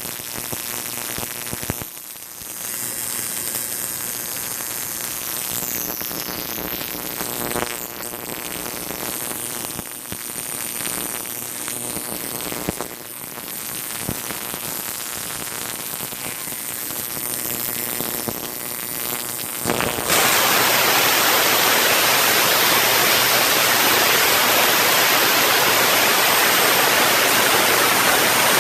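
Artificially generated storm sound: noisy, resonant static with faint steady tones and scattered clicks. About 20 seconds in it switches abruptly to a louder, even hiss like heavy rain.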